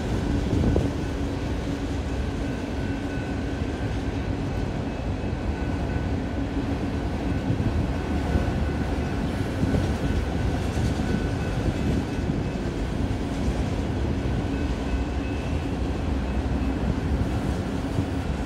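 Freight train of enclosed autorack cars rolling past: a steady rumble of wheels on the rails, with a faint steady whine above it.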